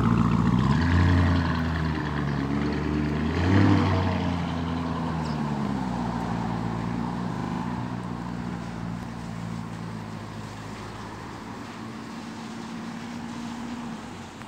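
Lamborghini Urus twin-turbo V8 exhaust, blipped twice in quick succession near the start, then settling into a steady low note that slowly fades.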